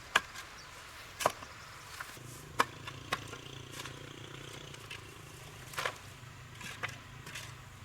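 Six or so sharp, irregularly spaced knocks, with a low steady hum underneath from about two seconds in.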